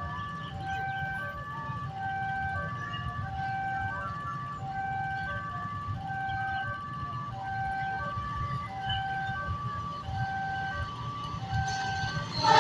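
Electronic railway level-crossing warning alarm repeating a falling pattern of tones about once a second, over the low rumble of idling vehicles.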